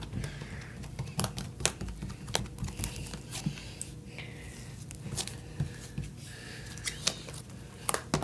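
Slime being handled and squished by hand, giving irregular small clicks and pops, several a second.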